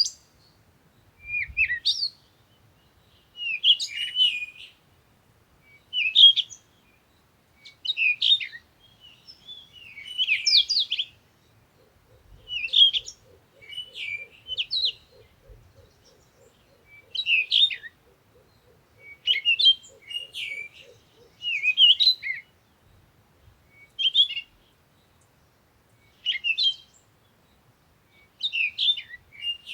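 A songbird singing short, warbled, chirping phrases, one about every two seconds, with brief pauses between them.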